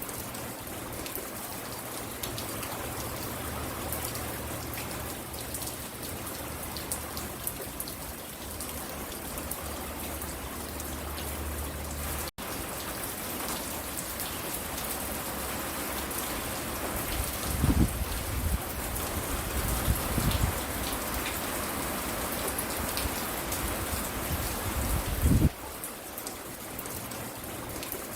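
Steady rain falling and pattering on the porch and ground. Three loud, low thumps come about two-thirds of the way through and near the end, and the sound cuts out for an instant a little before halfway.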